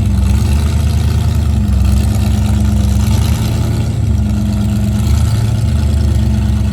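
A large truck's engine running steadily, a deep even drone with no change in pitch.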